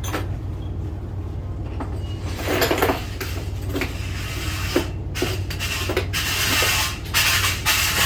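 Construction work noise: irregular scraping and rattling with sharp knocks, busier in the last couple of seconds, over a steady low machine hum.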